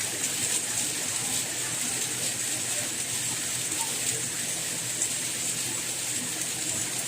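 Steady rain falling, an even hiss with a bright high edge and fine scattered patter of drops.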